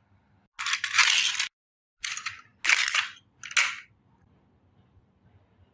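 Four short bursts of harsh hissing noise: a longer one about half a second in, then three shorter ones in quick succession, then silence.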